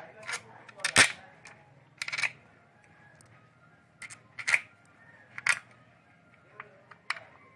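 Short metallic clicks and clinks of hand tools and nuts as nuts are fitted to a scooter engine's cover: about six separate strikes a second or so apart, the loudest about a second in.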